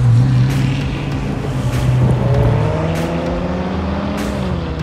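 Sports car engine driving. It runs at a steady pitch at first, then the revs climb about two seconds in as the car accelerates, and ease back down near the end.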